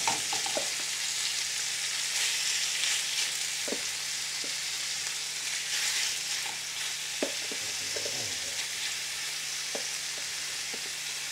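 Raw chicken thigh pieces sizzling steadily in a frying pan, with a few short knocks of a utensil against the pan as the meat is stirred.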